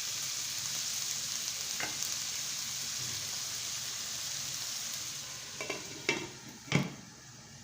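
Chicken frying in a pan, a steady sizzle that dies down about five seconds in. A few sharp knocks follow near the end, the loudest about a second before the end.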